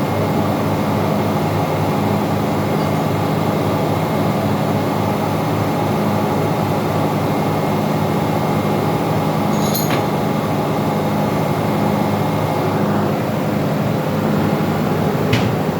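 Steady drone of running engine-room machinery, with two short sharp clicks, one about ten seconds in and another near the end.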